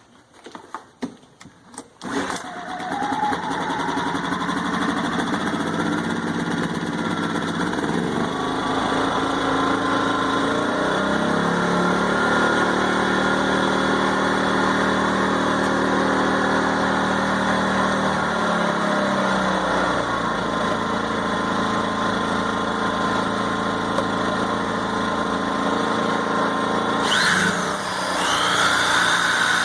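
WEN 56235i inverter generator's small four-stroke engine starting about two seconds in and then running steadily, its note shifting for several seconds midway. Near the end an electric sander plugged into it spins up with a rising whine.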